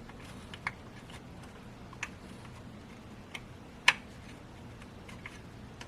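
Scattered light clicks and ticks of a plastic alternator pulley cover being worked and pressed into place by hand, with one sharper click about four seconds in.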